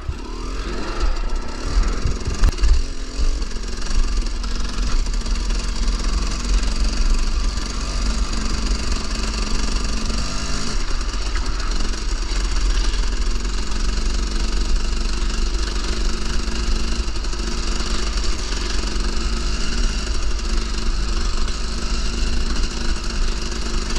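KTM 300 two-stroke dirt bike engine running steadily while being ridden, with a few louder bursts about two seconds in.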